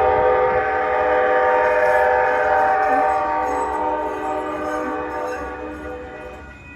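Train horn sounding one long, multi-tone chord held for several seconds, fading away near the end.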